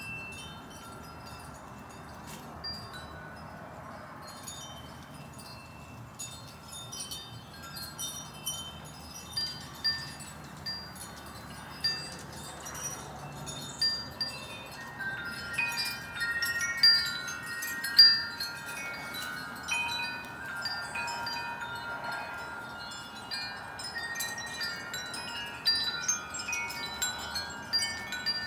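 Wind chimes ringing, struck irregularly at several pitches, with strikes coming more often and louder from about halfway through, over a steady low background hiss.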